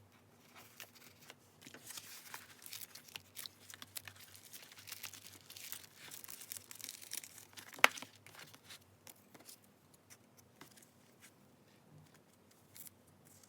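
Paper being rustled and torn for about six seconds, ending in one sharp tap about eight seconds in, followed by a few light ticks of paper handling.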